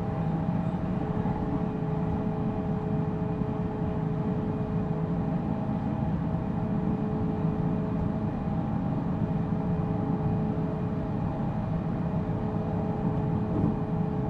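Interior running sound of a JR Central 313 series electric multiple unit motor car: a steady rumble of wheels on rail with an even hum from the traction motors and gears. The pitch holds level, as the train runs at a constant speed.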